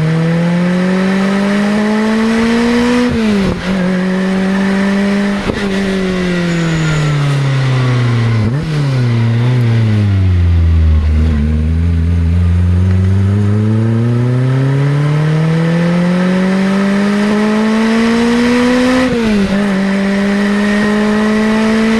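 Naturally aspirated 2004 Lotus Exige Cup's four-cylinder engine through a loud exhaust, driving under way. It revs up and shifts up about three seconds in, then eases off and slows with a downshift blip near halfway. It then pulls long and hard up through the revs and shifts up again near the end.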